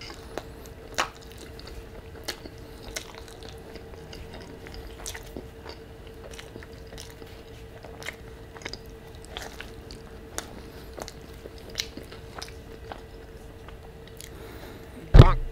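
Close-miked chewing of a mouthful of carne asada burrito: scattered wet mouth clicks and smacks. A loud thump near the end.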